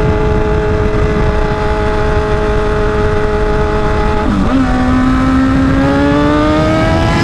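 Kawasaki ZX-10R motorcycle engine running with its exhaust taken off, loud and raspy at high revs over wind rush. It holds steady revs, drops in pitch about four seconds in at a gear change, then revs climb steadily as it pulls through the next gear.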